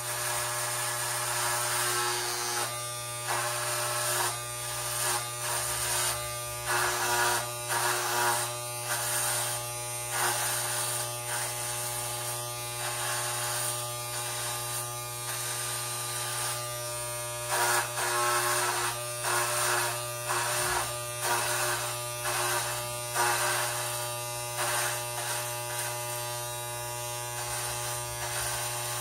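Electric hair clippers running steadily while shaving an undercut, with a steady buzz and repeated louder, rougher passes as the blades cut through short hair.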